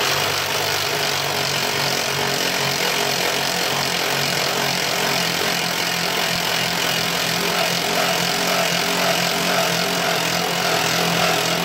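Power drill running steadily with a hole saw, cutting to enlarge a hole that is slightly too small.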